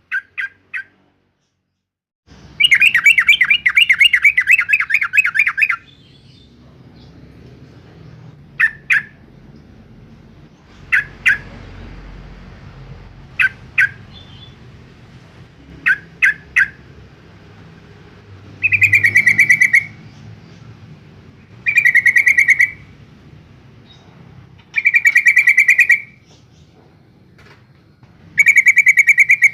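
Yellow-vented bulbul calling: short sharp double and triple notes alternating with fast rattling chatters about a second long, one longer rattle of about three seconds near the start.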